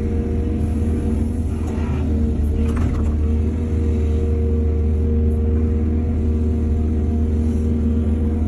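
Excavator's diesel engine running steadily with a deep rumble and a constant hum. Two short rushes of noise come about two and three seconds in.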